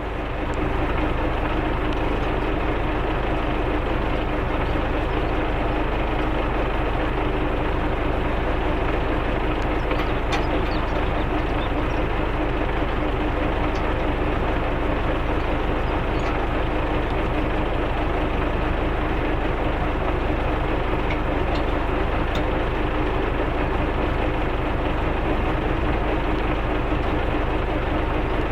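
Tractor engine running steadily, getting louder about half a second in, as it sets to rolling a freshly sown field with a roller set.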